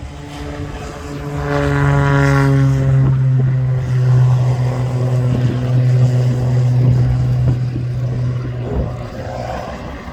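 Extra aerobatic monoplane's piston engine and propeller at take-off power, a steady droning note that swells about a second in, holds, and eases off near the end.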